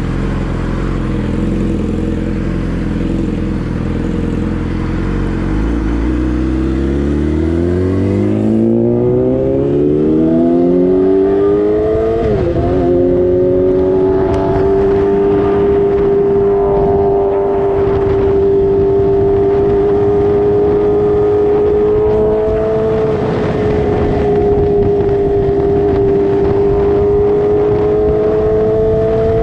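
Sport motorcycle engine running steadily, then revving up smoothly for several seconds; the revs dip briefly once, as at an upshift, and the engine then holds a steady high pitch under way, with rushing noise behind it.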